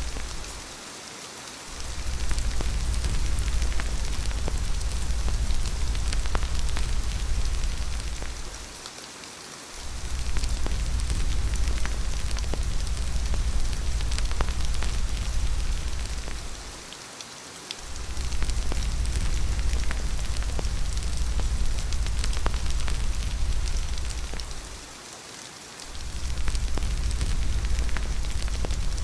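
Steady rain falling, a dense even hiss with scattered sharp ticks, over a deep low rumble that drops away briefly about every eight seconds, four times.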